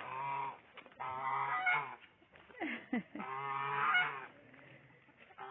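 Domestic geese honking: about four loud, nasal calls in a row, each half a second to a second long, with short pauses between them.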